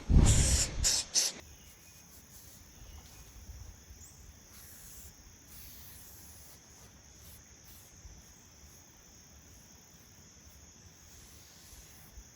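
Crickets or other insects chirring faintly and steadily. In the first second and a half there are a few short, loud hissing bursts.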